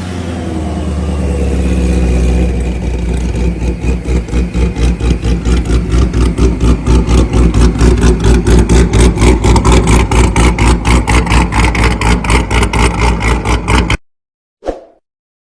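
Car engine whose note falls in pitch, then settles into a loud low drone that pulses rapidly and evenly, about six times a second, before cutting off abruptly near the end.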